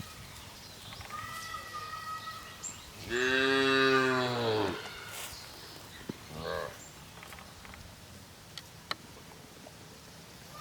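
A cow mooing: one long, low call about three seconds in whose pitch rises and then falls, followed by a fainter, shorter call a few seconds later.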